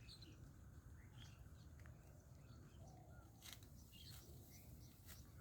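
Near silence in an open field, with a few faint, scattered bird chirps over a low hiss.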